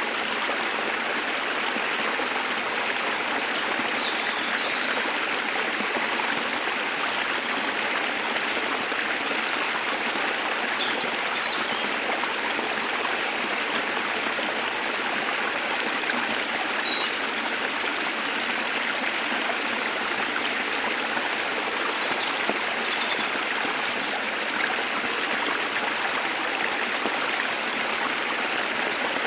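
Steady rush of a small waterfall or stream, with faint, scattered bird chirps above it.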